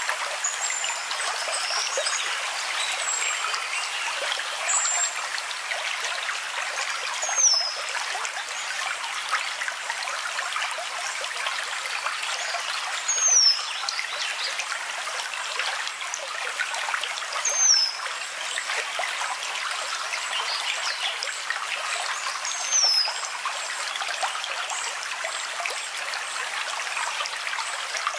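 Steady trickling of a stream, with a bird's short, high, falling whistle that comes four times, several seconds apart.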